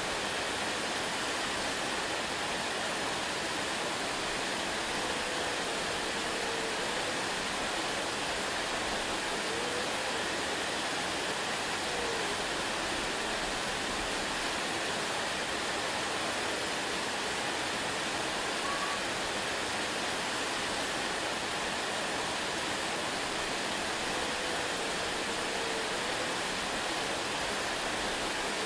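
Waterfall rushing in a steady, unbroken wash of water noise, with a few faint short chirps now and then.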